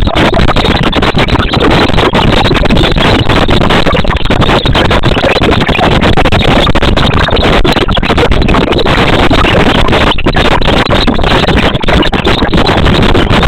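Loud, steady rushing noise with no clear pitch or rhythm.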